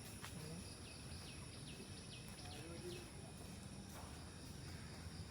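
Faint outdoor ambience: a bird gives a quick series of short falling chirps over a steady high insect hum and low background noise.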